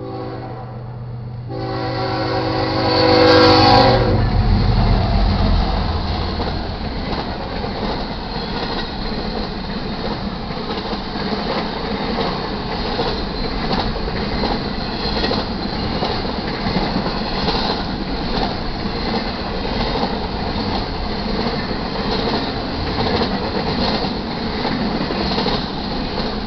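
Freight train led by GE ES44DC and ES44C4 diesel locomotives passing a grade crossing. The locomotive horn sounds, its last long blast cutting off about four seconds in, just as the locomotives go by at their loudest. After that comes a steady run of rail cars rolling past, their wheels clicking over the rail.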